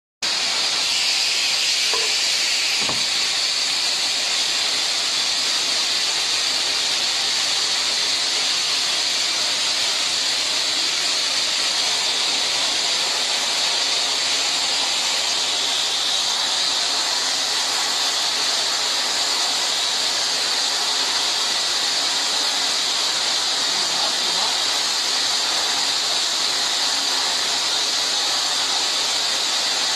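Steady, unbroken hissing spray, even in level throughout, with two faint clicks about two and three seconds in.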